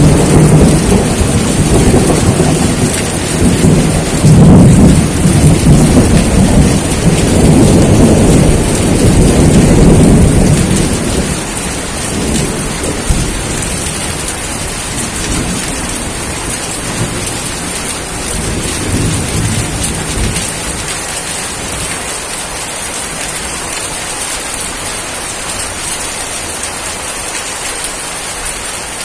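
Steady heavy rain falling, with a long roll of thunder rumbling through the first ten seconds or so and dying away, leaving the rain alone.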